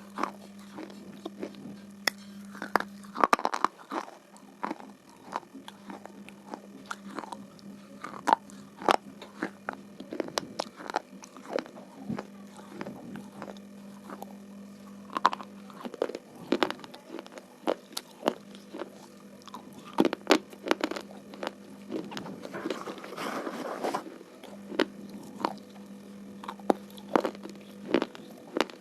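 Slate pencils being bitten and chewed: irregular sharp crunches and snaps, sometimes several close together, over a low steady hum that drops out now and then.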